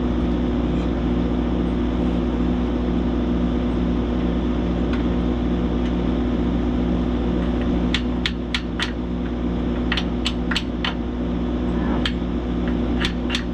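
An engine running steadily at idle, with sharp hammer blows starting about two-thirds of the way in, in quick runs of three or four strikes, roughly three a second.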